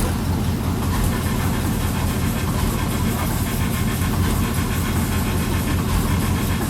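The 6.2-litre V8 of a 2012 GMC Denali running steadily through a Borla XR-1 Sportsman muffler, a low, even exhaust note.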